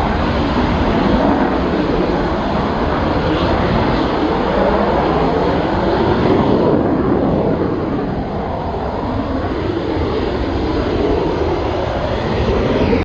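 Military fast jet's engines roaring loudly and steadily, with sweeping shifts in pitch partway through.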